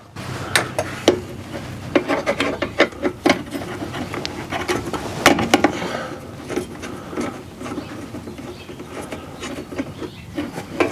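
Irregular metal clicks, ticks and scraping as the bug-clogged gas orifice is worked loose and unscrewed from a Suburban RV furnace's burner assembly.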